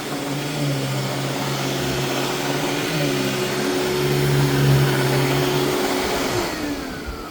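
Royal Deluxe Power Team vacuum cleaner with its power nozzle running on carpet, a steady motor hum over rushing air. About six seconds in it is switched off and the motor whine falls away as it spins down.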